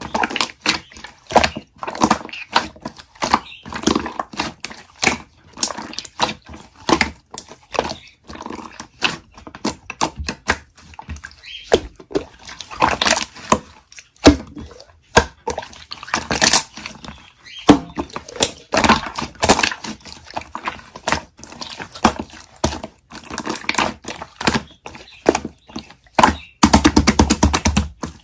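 Irregular close-up clicks and crackles, densely packed, with a fast rattle of clicks near the end.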